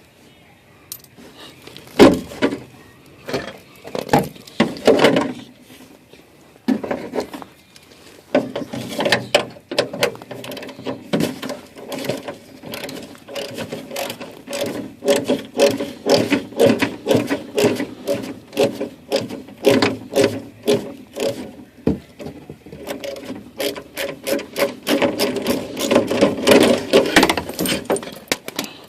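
Hand tools and a plastic under-engine cover being worked loose under a 2002 Toyota Corolla: repeated clicking, rattling and knocking. The sound is sparse for the first several seconds, then comes in near-continuous runs, with a few sharper knocks standing out.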